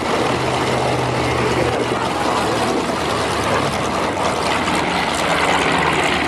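Propeller aircraft engine noise: a steady rushing drone with a low hum underneath.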